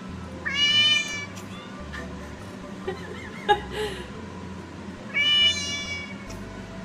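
A cat meowing twice: two loud, drawn-out meows about four and a half seconds apart, with a short sharp click between them. Background music plays underneath.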